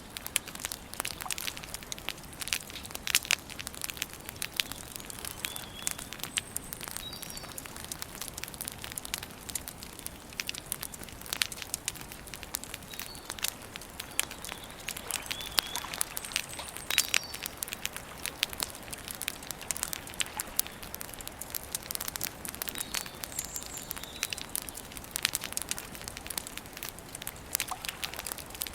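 Wood campfire crackling steadily, with frequent sharp pops and snaps over a low hiss; faint short bird chirps come in now and then.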